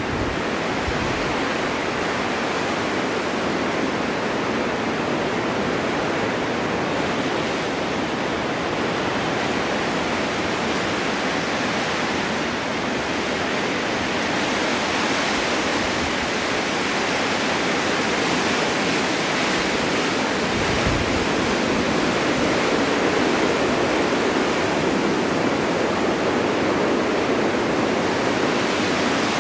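Winter wind in a snowstorm, a steady dense rushing hiss that swells slightly louder in the second half.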